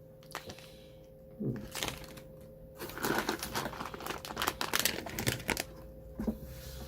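Crinkling of plastic candy wrappers and light taps as packaged snacks are lifted out of a box and set down on a table, sparse at first and busier from about halfway in.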